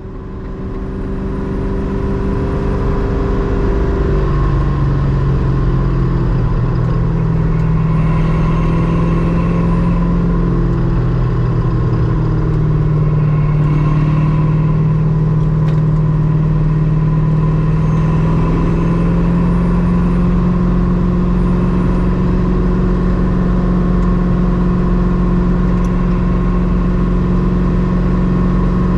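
Ultima RS's LS7 V8 engine running under way on the road, steady and loud. Its pitch steps up about four seconds in and then shifts a few more times as the revs change.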